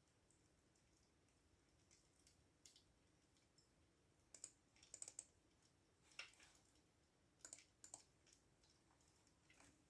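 Computer keyboard typing, faint and irregular: scattered keystrokes in short clusters, starting about two seconds in.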